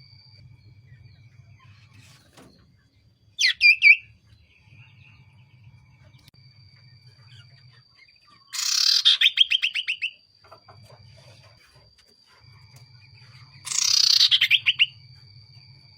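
Common iora (cipoh) calling: three loud, rapid trills of notes about 4, 9 and 14 seconds in, each lasting about a second.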